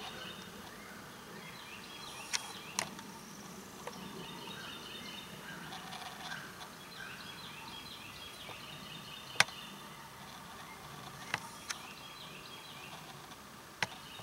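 Wild turkeys gobbling and calling at a distance, over faint background bird chatter, with a few sharp clicks.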